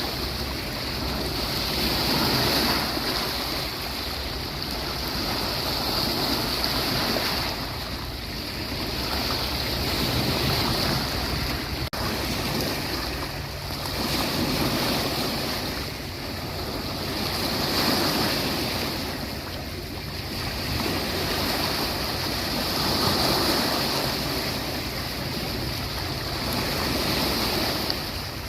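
Ocean waves washing onto a beach, the surf swelling and falling back every few seconds.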